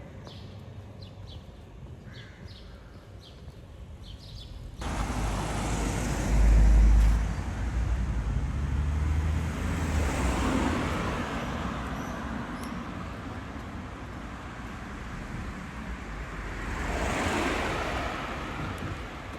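Street traffic: a road vehicle passes with a deep low rumble. It comes in abruptly about five seconds in, is loudest a second or two later, and swells again near the end.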